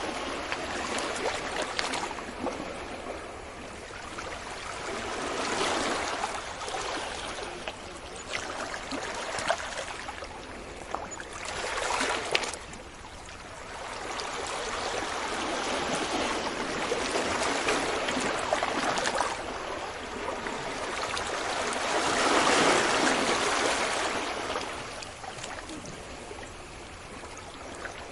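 Ocean waves breaking gently on a beach, the surf swelling and falling back in slow surges every few seconds, one louder wave near the end.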